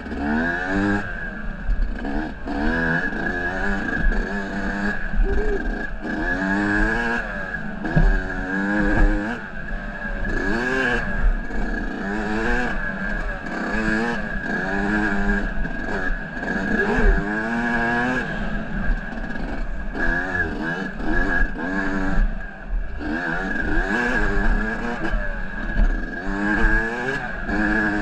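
Dirt bike engine running hard on a trail, revving up and down over and over as the rider works the throttle, with a few short knocks from the bike hitting bumps. The engine is back in use after seizing.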